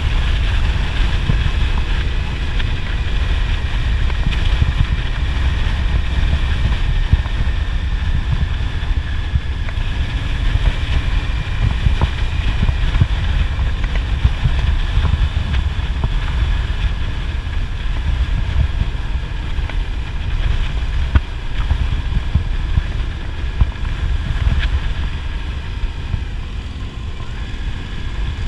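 Wind buffeting the microphone on a moving motorcycle, over the low rumble of the engine, steady throughout.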